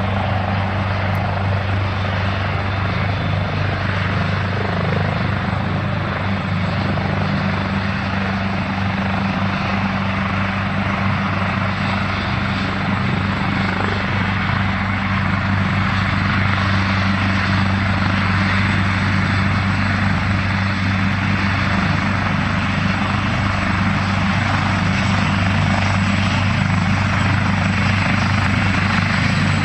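Air ambulance helicopter's turbine engines and rotor running steadily: a constant low rotor hum under an even, rushing turbine noise.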